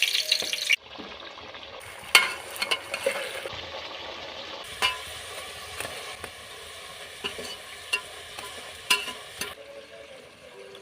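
Potato chips frying in hot oil. A loud sizzle in about the first second settles to a steady quieter sizzle, with scattered clicks and knocks as the fries are stirred in the pan.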